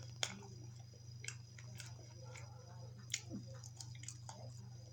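A person chewing food with the mouth close to the microphone: faint wet smacking clicks at irregular intervals over a steady low hum.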